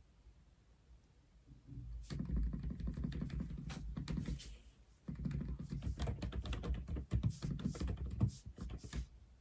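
Typing on an Aula F87 mechanical keyboard: two fast runs of keystrokes, the first starting about two seconds in, with a short pause between them.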